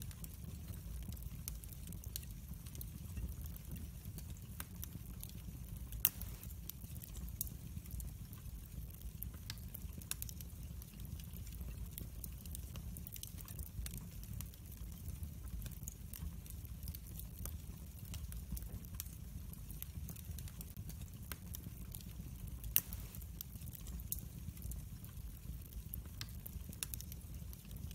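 Wood fire burning in a fireplace: a steady low rumble of flames with scattered crackles and two louder pops, one about six seconds in and one later on.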